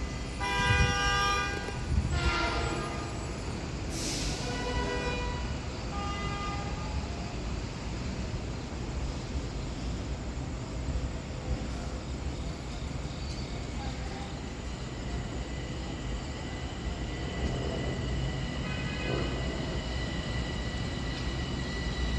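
Metro-North electric commuter train sounding a few short horn blasts in the first several seconds, then running with a steady rumble and a steady high-pitched whine that sets in about midway.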